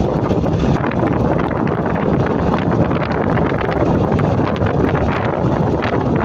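Steady wind rushing over the microphone of a moving motorcycle, with the bike's engine and road noise mixed in beneath.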